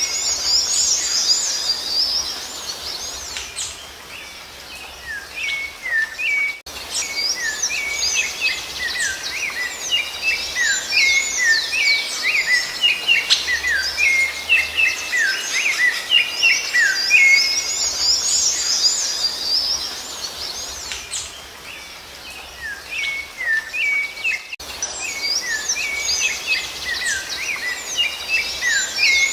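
Rufous-bellied thrush (sabiá-laranjeira) singing: long runs of quick whistled notes and slurred glides, dropping off twice for a few seconds before starting again.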